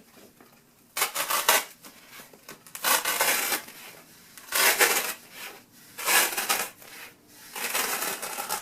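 A foam pool noodle being cut lengthwise with a blade to split it down the side: five separate rasping cutting strokes, each about half a second to a second long, with short pauses between.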